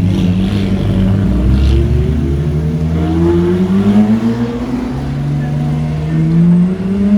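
Car engine accelerating hard, its note rising steadily, then dropping at an upshift about five seconds in and rising again in the next gear.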